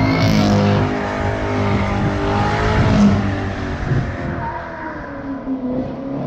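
C7 Corvette V8 running hard through its exhaust, the engine note rising and falling. It is loudest about three seconds in, eases off, then climbs again near the end.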